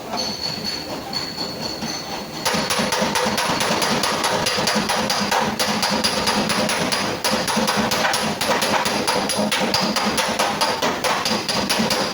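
Hammering on the sheet metal of a car's fender panel, as in body repair: a few lighter, ringing taps, then from about two and a half seconds in a fast, even run of blows with a metallic ring.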